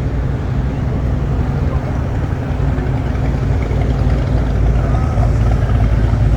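Classic car engines running with a deep, steady sound, getting louder toward the end as a car draws closer.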